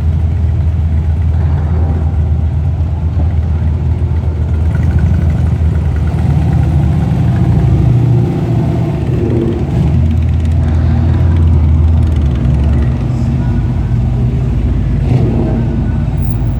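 A car engine running steadily with a low, deep rumble that eases off slightly a few times.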